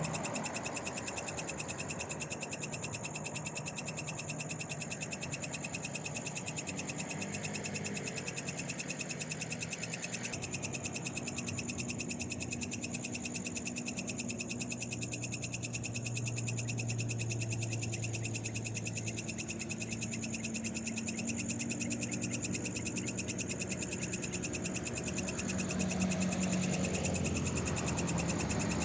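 Night chorus of frogs and insects calling steadily in a fast, even trill.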